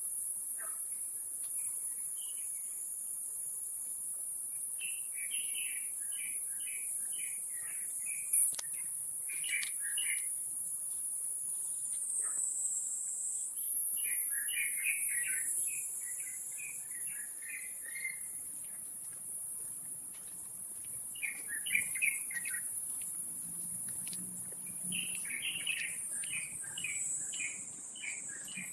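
A bird calling in five runs of rapid chattering notes, over a steady high-pitched insect drone.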